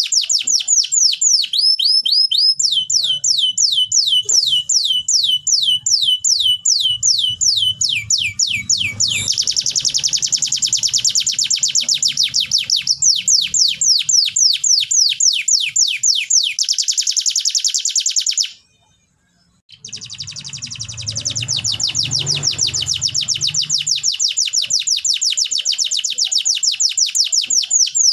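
Canary singing in long rolling tours: fast runs of short, evenly repeated falling whistles that change pitch and speed every few seconds. The song breaks off briefly about two-thirds through, then resumes.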